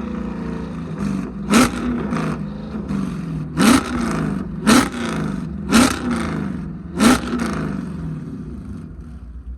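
A car engine being revved repeatedly in five sharp blips about a second apart. Each blip rises in pitch, peaks with a crack and falls back to a steady idle, and the revving dies down near the end.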